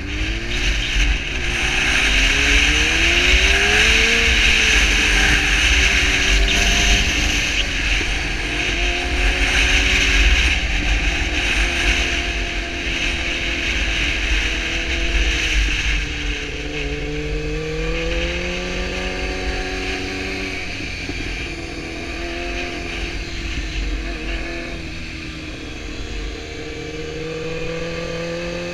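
600 cc inline-four sport motorcycle engine pulling through the gears, its pitch rising and falling several times as the throttle opens and closes, heard from the bike itself with wind rushing over the microphone. It is louder and busier in the first half and runs more gently later as the bike slows.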